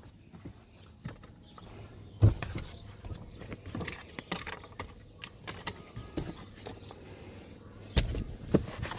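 Scattered clicks, rustles and knocks of handling inside a truck's cab, with a louder thump about two seconds in and another near the end.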